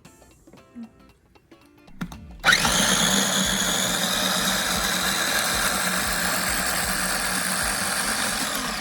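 Kitchen blender switched on about two seconds in and running steadily at one speed, blending a milkshake of ice cream, Oreo cookies and milk.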